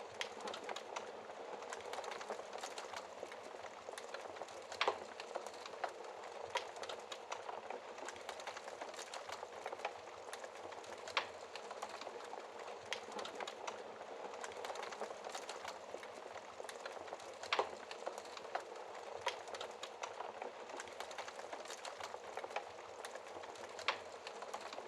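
Wood fire burning in a fireplace: a steady low hiss with frequent sharp crackles and pops from the logs, a few louder pops standing out.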